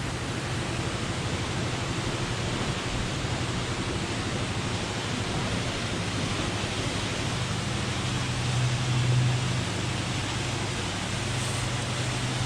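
Waterfall pouring: a steady, even rush of falling water, with a low steady hum beneath it.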